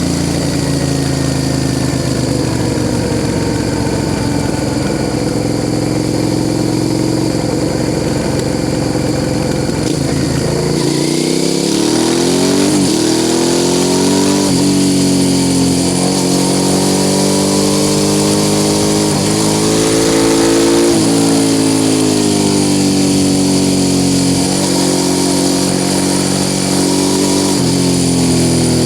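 Suzuki SV650 S V-twin with a Mivv aftermarket exhaust, heard onboard: running steadily at low revs, then from about ten seconds in accelerating through several gears, the pitch climbing and dropping back at each shift before settling into a steady cruise.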